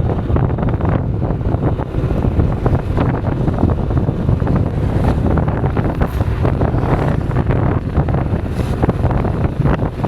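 Strong wind buffeting the microphone, a steady low rumble with gusty flutter, as from riding in an open moving vehicle.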